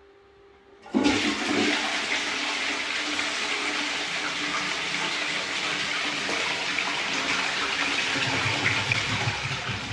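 Water rushing, starting abruptly about a second in and running steadily, easing off slightly near the end.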